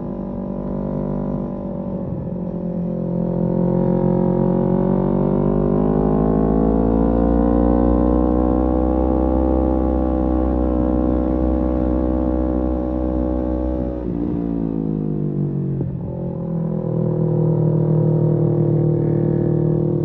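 Kawasaki Z250's parallel-twin engine with a SeaPro aftermarket muffler, running under way. The revs climb over the first few seconds and hold steady, then drop sharply about two-thirds of the way through, as on a roll-off or gear change, and settle at a steady cruise.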